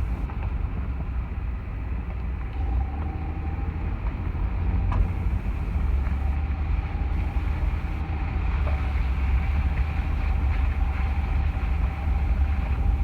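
A 2011 Ford F-150's 3.5 L EcoBoost twin-turbo V6 running steadily, with a rapid woodpecker-like tapping from under the hood. This is a new noise whose cause is unknown.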